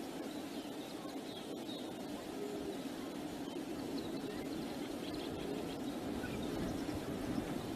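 Steady wind noise on an outdoor microphone, with faint, scattered bird chirps.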